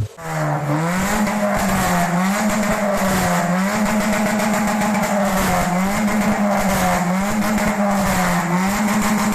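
Vehicle engine running through an HKS aftermarket muffler: a steady exhaust note that rises and falls gently every second or two.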